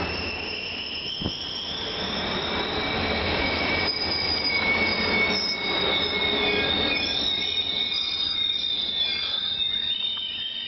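Caltrain passenger train's steel wheels squealing on the rails: several high, thin squeal tones held at once, one rising in pitch over the first couple of seconds, over a fading rumble.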